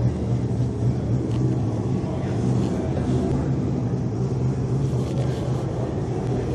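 A car engine running steadily at idle, a low even rumble.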